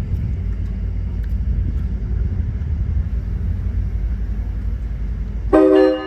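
Passenger train standing before departure: the diesel locomotive gives a steady low rumble, and near the end a train horn starts a loud blast of several tones at once.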